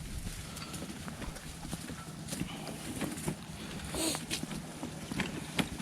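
Footsteps along a dirt hiking trail, with scattered clicks and knocks and a louder knock about four seconds in.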